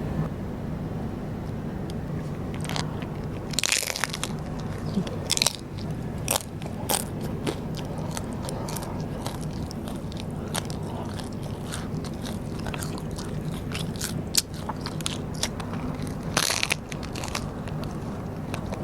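Biting and chewing crunchy Vietnamese rice paper (bánh tráng): scattered crisp crunches, in dense clusters about four seconds in and again near the end, over a steady low hum.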